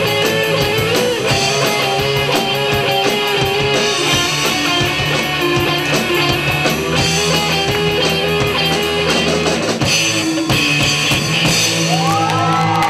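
Rock band with drum kit and electric guitar playing an instrumental passage, drums keeping a steady beat; a few sliding notes rise in pitch near the end.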